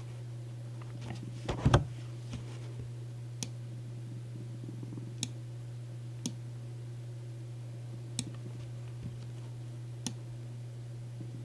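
Sparse single clicks of a computer mouse and keyboard: a louder cluster about one and a half seconds in, then one click every second or two, over a steady low hum.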